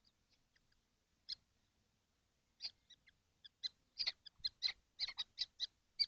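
Kestrels calling in a nest box: short high-pitched notes, a single call and then a series that quickens and grows louder from about halfway in, around three to four calls a second.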